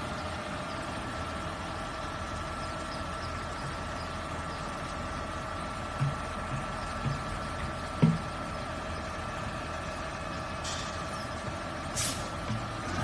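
Garbage truck idling with a steady whine, a few low knocks around the middle, and a short sharp hiss about a second before the end.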